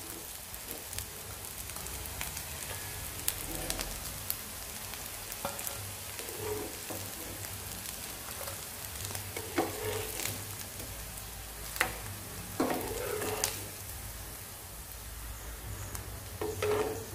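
Potato patties shallow-frying in oil in a non-stick pan, the oil sizzling steadily, with several short clinks and scrapes of a steel spatula as the patties are lifted out onto a steel plate.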